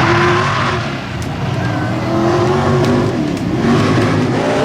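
Mega truck engine revving hard, its pitch rising and falling over a heavy rumble.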